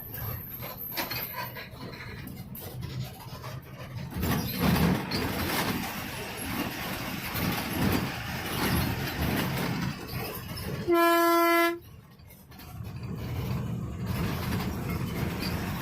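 Bus running, heard from inside the cabin, with one loud horn blast of just under a second about eleven seconds in.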